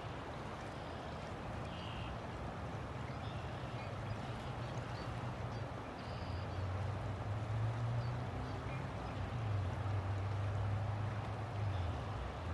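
River water flowing steadily, with a low rumble underneath that grows louder about halfway through.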